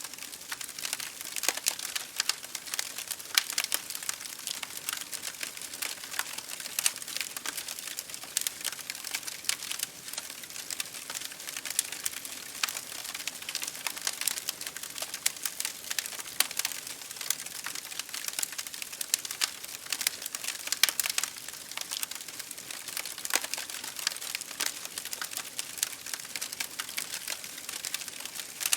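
Wood fire crackling and popping in a fireplace, mixed with rain pattering on a window: a steady hiss full of dense, irregular sharp clicks.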